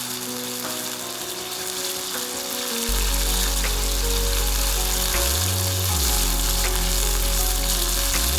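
Char bones deep-frying in hot oil, a steady crackling sizzle. Background music plays over it, its bass coming in about three seconds in.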